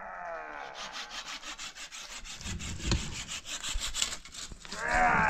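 Hand saw cutting wood in quick, even back-and-forth strokes. A long cry falling in pitch fades out over the first second, and a louder one starts near the end.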